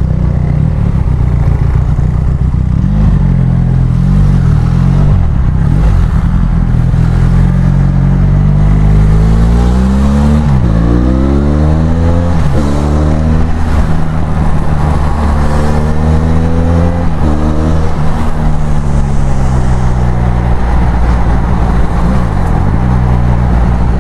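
Benelli Leoncino 500 parallel-twin engine through an aftermarket exhaust, riding and accelerating through the gears. Its pitch climbs and drops sharply several times about halfway through as it shifts up. Near the end it falls away as the bike slows, then runs steady.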